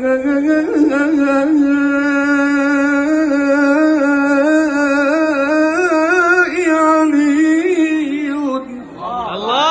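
A man singing an Arabic devotional qasida solo. He draws one long melismatic note with wavering ornaments and vibrato, breaks off about eight and a half seconds in, then starts a short rising phrase near the end.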